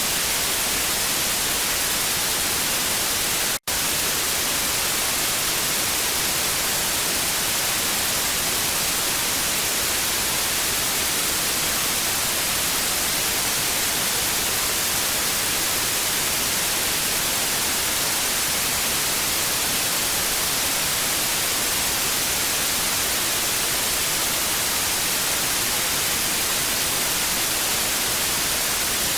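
TV static: a steady, even hiss, brightest in the high end, with one split-second dropout to silence about three and a half seconds in.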